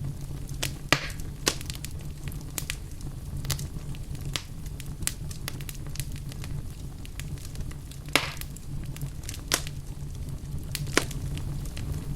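Wood fire crackling in a fireplace: a steady low rumble of burning logs under frequent sharp pops and snaps, a few of them louder.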